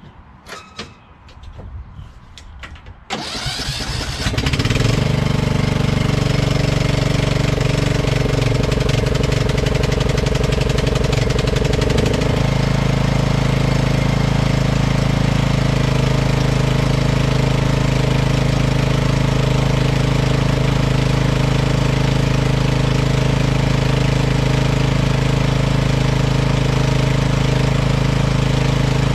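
Riding lawn tractor engine starting: a few light clicks, then about three seconds in it cranks and catches within a couple of seconds and runs steadily, its tone shifting slightly around twelve seconds in.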